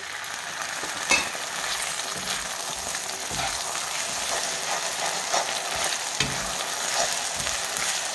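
Sliced onions and freshly added ginger-garlic paste sizzling in hot sesame oil in a black kadai, stirred and scraped with a slotted metal spatula in short repeated strokes. The sizzle swells as the stirring starts, and a sharp knock about a second in is the loudest sound.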